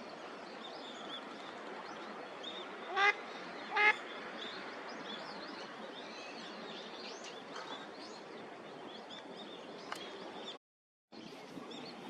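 Female mallard quacking twice in quick succession, loud and short, about three and four seconds in, over a steady background with many faint high chirps from small birds.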